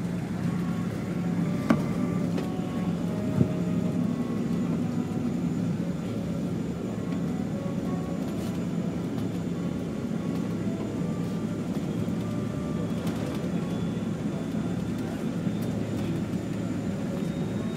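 Boeing 777 cabin noise on the ground after landing: a steady rumble and low engine hum as the airliner rolls along. Two short sharp clicks come near the start.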